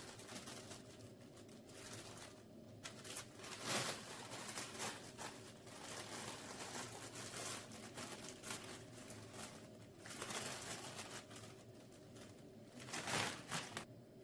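Irregular rustling and handling noises, with two louder, longer rustles about four seconds in and near the end.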